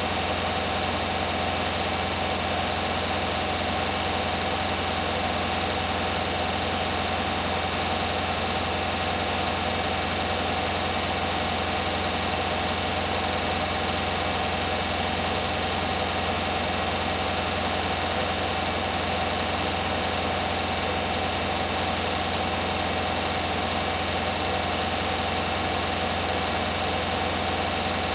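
Beko WTK104121W front-loading washing machine on a 1400 rpm spin cycle, spinning steadily at speed: a constant whine over a low hum.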